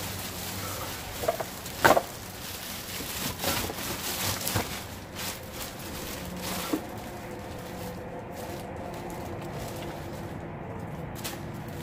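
Household items being handled and set down: a string of short knocks and clatters, the loudest about two seconds in, over a steady low hum.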